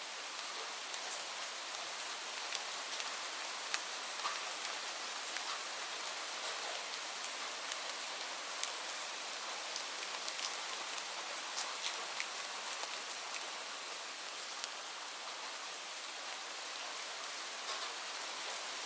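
Steady rain falling on leaves: a continuous hiss of drops, with separate nearer drops ticking now and then.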